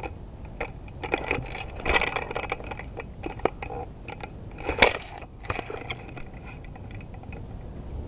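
Dry leaves and twigs crackling and crunching close by as a person shifts on the ground, in irregular snaps, with one sharper snap about five seconds in.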